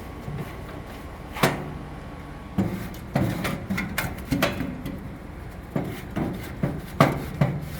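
A wooden paint stir stick wrapped in microfiber scraping and knocking against the inside of a propane grill, pushing grime down into the grease pan. The rubbing is broken by irregular sharp knocks, the strongest about a second and a half in and near the end.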